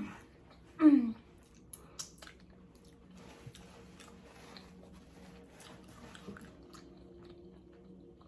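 Close-up chewing of food, with a few sharp crunches around two seconds in and soft wet chewing after. About a second in there is a brief louder sound whose pitch falls, the loudest moment.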